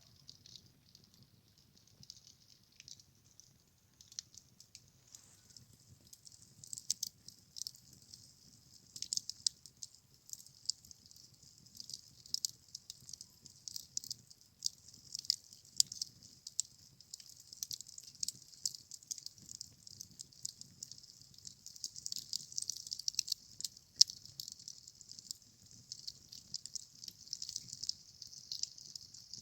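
Campfire crackling: frequent sharp pops and snaps over a steady hiss, growing denser and louder after the first few seconds.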